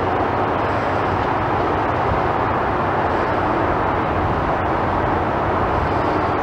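Steady, loud rumbling noise with no breaks or distinct impacts.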